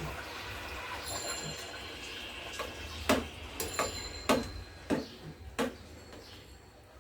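A utensil clinks and knocks against a cooking pot as ramen noodles are stirred into the sauce. The knocks are sharp and irregular, mostly in a cluster past the middle, over a steady low background noise.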